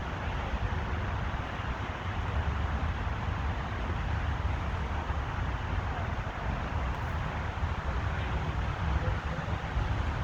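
Steady outdoor background noise: a constant low rumble of traffic mixed with wind on the microphone.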